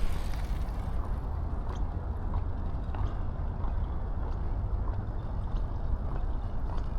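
A runner's footfalls, faint and regular at somewhat under two a second, over a steady low rumble picked up by an action camera's microphone while running.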